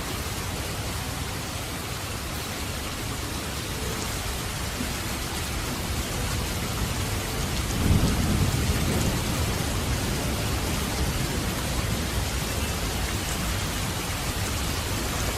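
Steady rain hissing, with a low roll of thunder about halfway through that swells and fades back into the rain.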